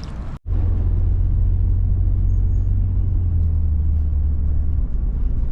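Car driving, a steady low drone of engine and road noise that starts after a brief break about half a second in.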